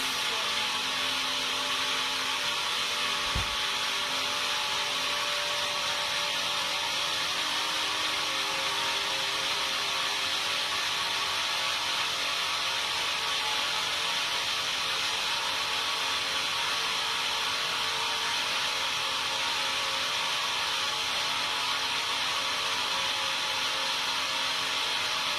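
Sawmill saw running steadily, a constant hiss-like machine noise with a faint hum, with one brief low thump a few seconds in.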